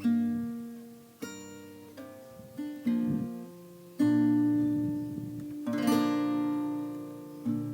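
Acoustic guitar playing the closing chords of a song, a chord struck about every second and left to ring out and fade.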